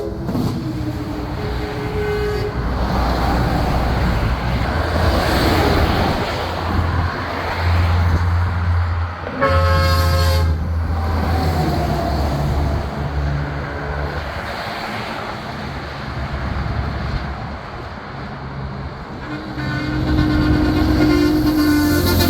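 Big-rig trucks driving past with a steady diesel engine rumble. A truck air horn blasts about ten seconds in, and another horn sounds near the end.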